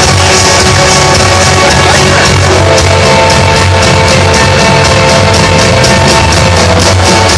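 Live blues-rock band playing: held electric guitar notes over a steady low bass tone, with a fast, even cymbal rhythm coming in about two and a half seconds in.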